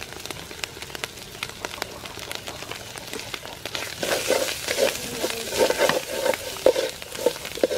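Chopped dry sweet pepper and curry powder frying in oil in a metal pot, sizzling with fine crackles. From about four seconds in, a wooden spoon stirs it in louder, irregular scraping strokes.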